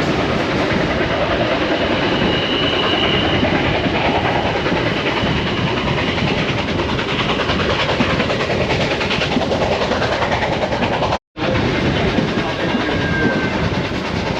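Passenger train rolling along the track, heard from aboard: a steady rumble of wheels on rails with clickety-clack, and a brief high squeal about two seconds in. The sound cuts out for a split second near the end.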